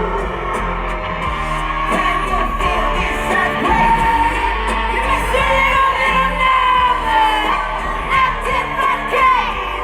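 Loud live pop-rock band music with a held, wavering vocal line and yelled vocals over a steady heavy bass.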